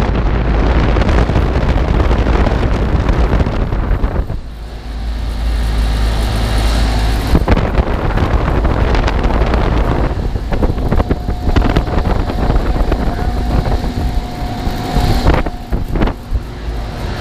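York packaged air-conditioning unit running just after switching on, its two condenser fans blowing steadily, with air buffeting the microphone. A steady hum joins about ten seconds in.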